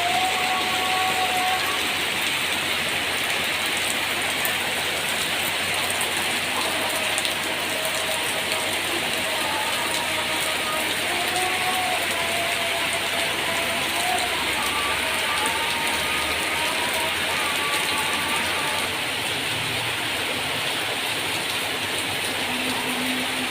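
Steady rain falling, a dense, even hiss with fine patter.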